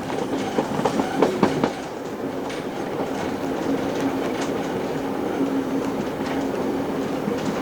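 Train carriage running along the track: wheels clicking over rail joints for the first couple of seconds, then a steady rolling rumble with a constant low hum.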